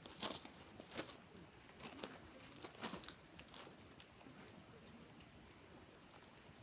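Wood campfire crackling faintly, with irregular sharp pops, several in the first few seconds and fewer after that.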